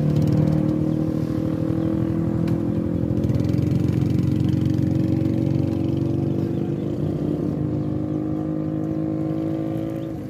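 A vehicle engine running at a steady speed, its pitch drifting slowly lower, then easing off near the end.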